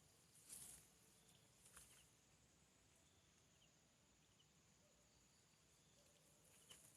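Near silence: faint outdoor background, with a couple of soft brief rustles early on and a few tiny faint chirps later.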